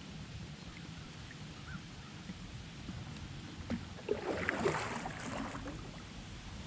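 Kayak drifting on fast river current: a steady low rush of moving water, with a click and then a brief noisy burst of handling or splashing around the boat about four seconds in.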